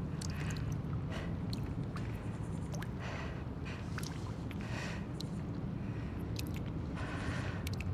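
Abandoned-building ambience: a steady low rumble with scattered small clicks, drips and scrapes every second or so.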